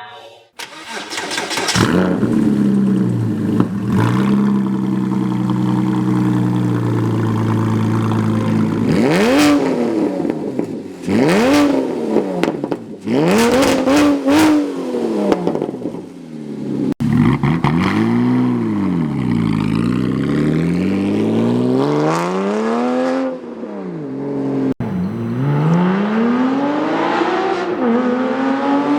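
Porsche 987 flat-six engine through a custom straight-pipe exhaust, running steadily and then revved again and again, its pitch rising and falling with each blip of the throttle. Twice the sound breaks off abruptly and resumes.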